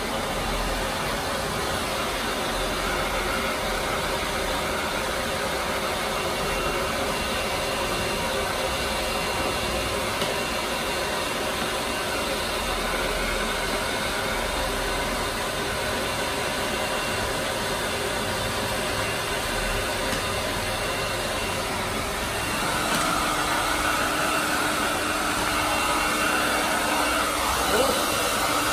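Steady running of a small motor with an even hiss. About 23 seconds in it grows slightly louder and takes on a steady tone.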